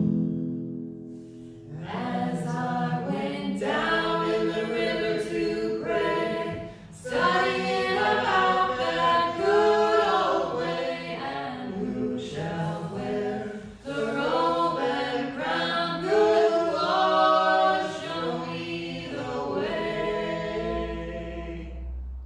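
A choir singing unaccompanied, in phrases of held notes with short breaks between them, starting about two seconds in and fading near the end.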